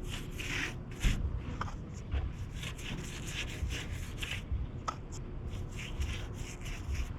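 Chip brush scrubbing rust converter onto pitted sheet metal at the bottom of a car door, short scratchy strokes at about two a second.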